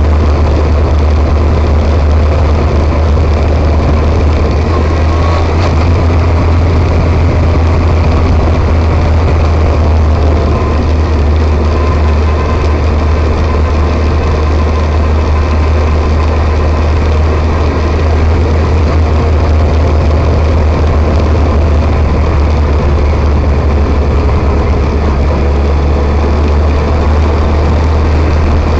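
Motorcycle running steadily on a ride: a loud, unbroken low rumble with a constant hiss over it and no change in speed.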